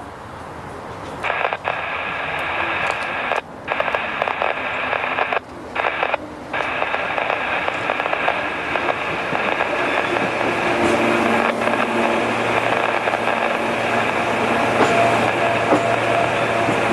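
Scanner radio hissing with an open channel of static that cuts out briefly three times early on. From about ten seconds in, a low steady diesel locomotive hum runs underneath.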